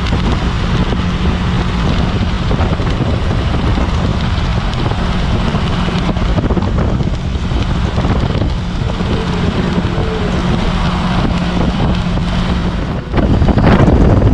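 Steady road and engine noise of a moving car, with a constant low hum. It grows louder about 13 seconds in.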